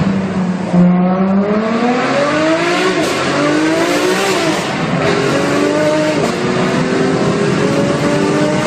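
Supercar engine accelerating hard in a road tunnel: a held note for about a second, then the revs climb, dip at a gear change about four and a half seconds in, and climb again.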